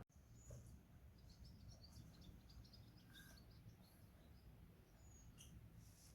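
Faint chirping of small birds: many short, high chirps scattered throughout, over a low background rumble.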